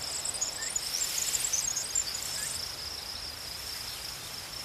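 Crickets trilling steadily at a high pitch, with a scatter of sharper, higher chirps over the first two and a half seconds.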